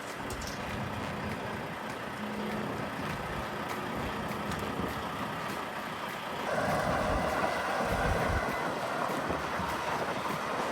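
Tractor-trailer engine running, mixed with wind noise on the microphone; the truck gets louder about six and a half seconds in.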